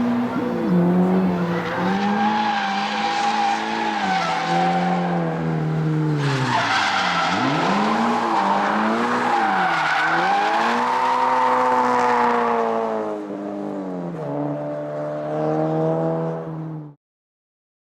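Toyota 86 / Subaru BRZ flat-four engine through a straight-through rear exhaust muffler, revving up and down several times, then settling to idle about three-quarters of the way through before cutting off.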